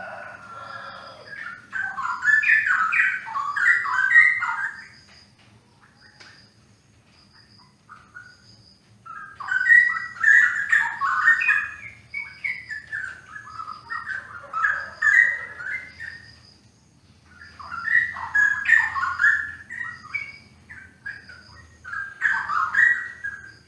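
Straw-headed bulbul (cucak rowo) singing: loud, bubbling warbled phrases of a few seconds each, in four bouts with short pauses between. A faint short high note repeats evenly behind the song.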